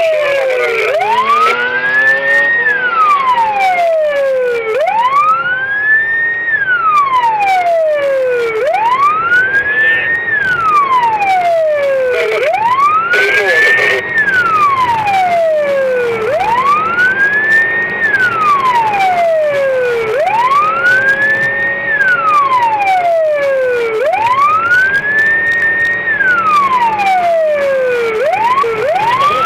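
Emergency vehicle siren wailing, its pitch rising quickly and then falling slowly in a steady cycle of about four seconds, repeated some seven times.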